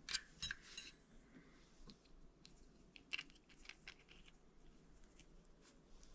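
Faint clicks and small knocks of a shower valve cartridge's parts being handled and fitted back together, a quick cluster in the first second and another sharp click about three seconds in.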